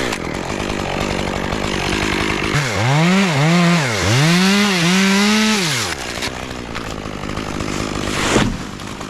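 Chainsaw cutting wood: the engine runs at speed, and about two and a half seconds in its pitch dips and recovers several times as the chain bites into the cut, then eases off. A short sharp knock comes near the end.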